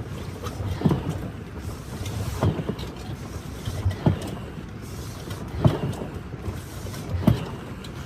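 Regular dull thuds, about one every second and a half, over a steady low background noise.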